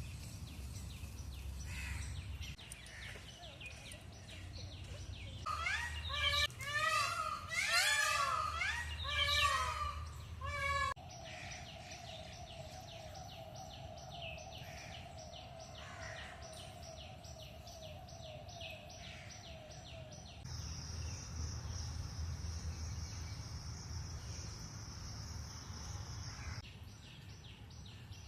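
Birds calling outdoors: a loud burst of many repeated chirping calls, then a steady trill, then a high steady insect-like whine, each part starting and stopping abruptly as if clips were spliced together.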